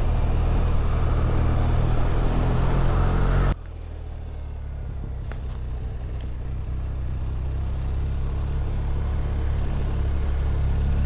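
Motorcycle engine and wind noise while riding on the road. The sound drops sharply about three and a half seconds in, then slowly grows louder.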